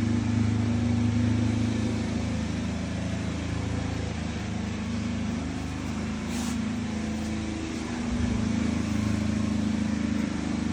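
A steady low drone of a running motor or engine, with a brief hiss about six seconds in.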